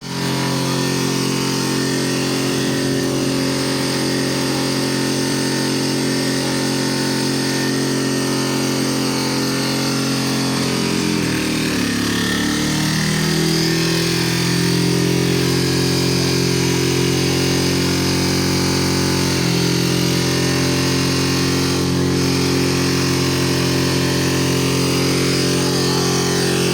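Piaggio diesel engine in runaway, running on its own at a steady high speed out of control. Its pitch sags about eleven seconds in and climbs back up a couple of seconds later.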